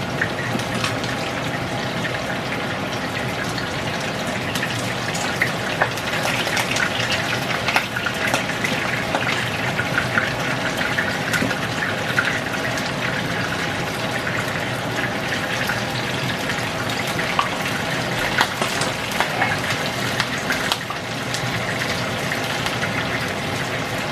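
Vietnamese spring rolls deep-frying in hot oil: a steady sizzle with many small crackles and pops scattered throughout.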